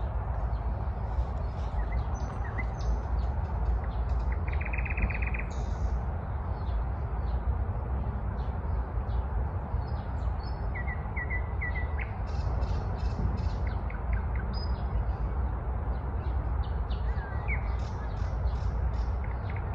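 Nightingale singing varied phrases of quick clicks, whistles and repeated notes, with a rapid trill about four seconds in and a run of repeated notes around eleven seconds. A steady low rumble runs underneath.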